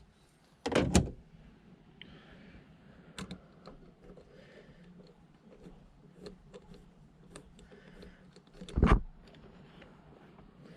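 Hand work on the engine while ignition coils are fitted: scattered light clicks and taps of plastic and metal parts being handled, with two louder dull thumps, one about a second in and one near the end.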